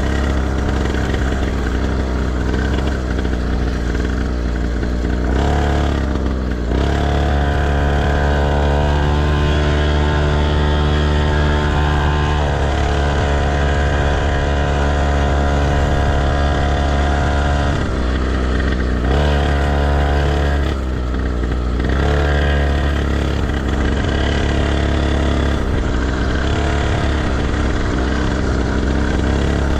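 Motocross bike engine running hard on the track, its pitch holding steady in stretches and then dropping and climbing again several times as the rider shifts or backs off and opens the throttle, over a heavy low rumble.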